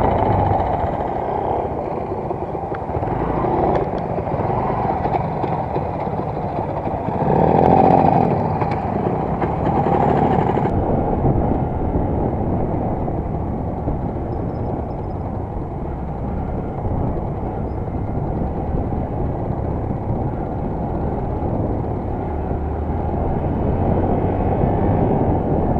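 Wind rushing over a helmet-mounted camera's microphone while riding a Yamaha YBR 125, its single-cylinder four-stroke engine running underneath. The noise swells briefly about eight seconds in.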